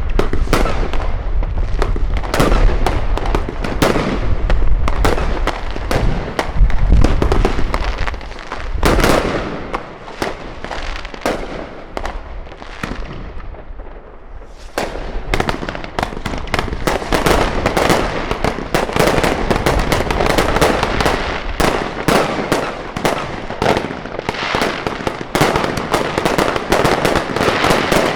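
New Year's fireworks going off: a dense run of bangs and crackling with deep booms in the first several seconds, thinning out for a few seconds near the middle, then a thick, continuous crackle from about halfway on.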